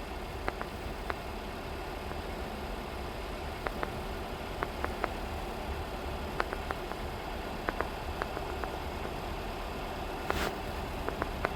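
Steady low hum of an idling engine, with scattered light clicks and taps over it.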